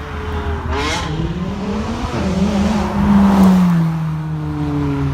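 Supercar engine accelerating out of the car park. Its pitch jumps briefly about a second in, climbs to its loudest around three seconds, then falls steadily as the car drives off.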